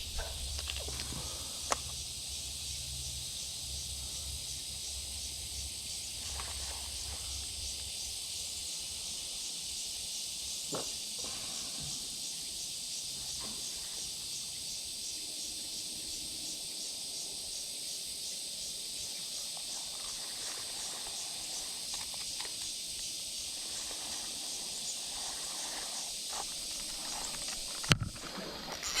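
A steady, high-pitched chorus of insects droning with a fast pulsing texture. A few faint knocks come through, the sharpest near the end.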